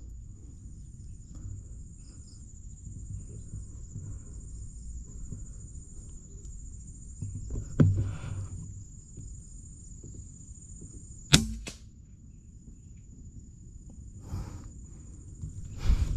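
Insects trilling in one steady high-pitched tone, over low outdoor rumble. A thump comes about eight seconds in, a sharp crack at about eleven seconds, and another knock near the end.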